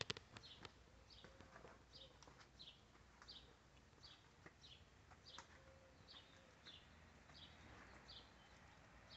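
A small bird chirping faintly: short, high chirps repeated steadily about every two-thirds of a second.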